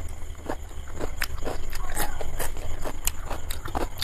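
Close-miked chewing of a mouthful of chicken biryani: irregular wet mouth clicks and smacks, over a steady low hum.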